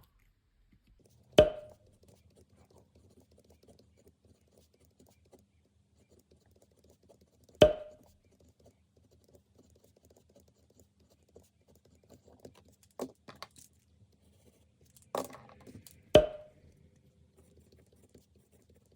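Three sharp knocks, each with a short ring, spread several seconds apart, with a few smaller clicks and a faint scratching and rustling between them.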